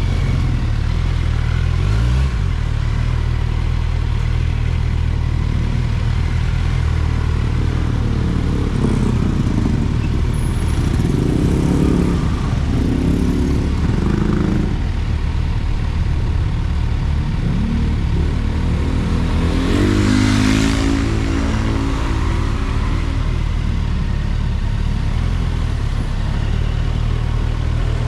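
Motorcycle engine running under way over a steady low road rumble. Its pitch rises as it accelerates, about eight seconds in and again about twenty seconds in, with a brief rush of hiss at the second rise.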